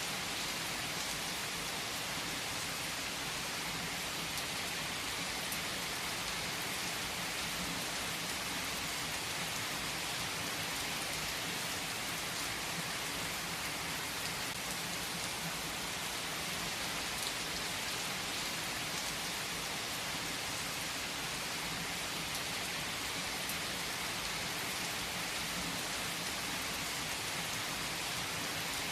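Steady rain falling, an even hiss with occasional faint ticks of drops.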